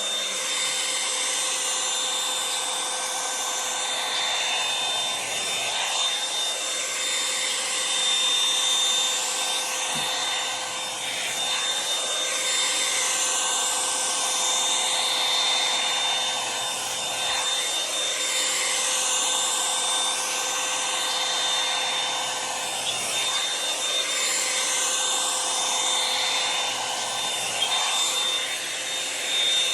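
Revlon One-Step hair dryer brush running steadily, its motor whine and rushing air changing in a slow sweep about every five to six seconds as the brush is drawn through the hair.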